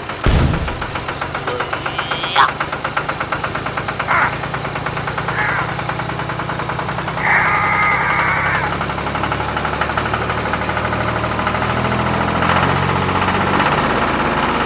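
An engine catches with a loud burst and then keeps running with a steady, rhythmic chug. A few short, high-pitched tonal sounds ring out over it, the longest about seven seconds in.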